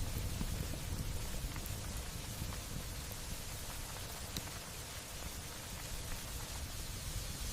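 Light rain falling steadily, an even hiss with a few faint scattered ticks of drops.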